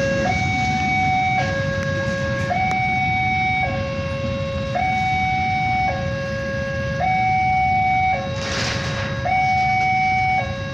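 A two-tone hi-lo siren switching between a higher and a lower note about once a second, steady in pitch, over a constant low rumble. A short hiss comes about eight and a half seconds in.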